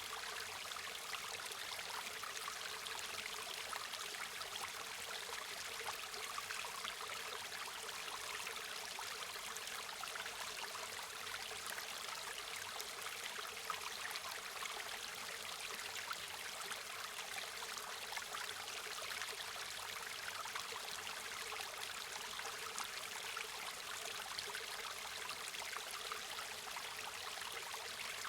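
River water flowing steadily over stones, an even rushing with fine trickling detail and no break.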